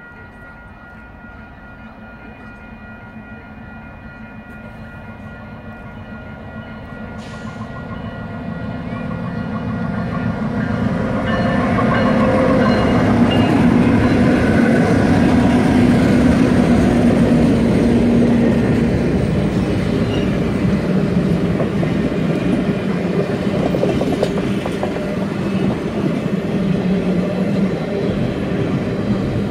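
A passenger train led by Canadian Pacific FP9 diesel locomotives approaching and passing close by. A steady multi-note horn chord sounds in the distance at first. Then the diesel engines' drone grows louder to a peak about halfway through as the locomotives pass, followed by the steady rumble and wheel clatter of passenger cars rolling by.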